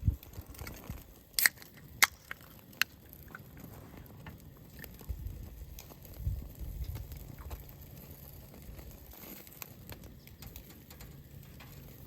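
Cooking gear being handled at a grill: four sharp clicks or knocks in the first three seconds, then softer knocks and rustling.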